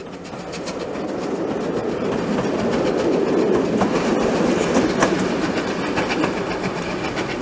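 Coaches of a steam-hauled passenger train rolling past, their wheels clicking over the rail joints. The sound fades up over the first couple of seconds, then holds steady.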